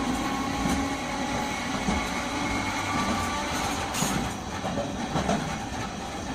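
Nagasaki Electric Tramway 370-series streetcar running between stops, heard from inside the car: a steady rumble of the motor and wheels on the rails. A faint whine fades out within the first second, and there is one sharp click about four seconds in.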